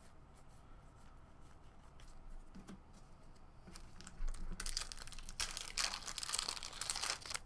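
Foil wrapper of a baseball card pack crinkling and tearing. It starts about four seconds in and runs in two stretches of dense crackle, after a few faint handling ticks.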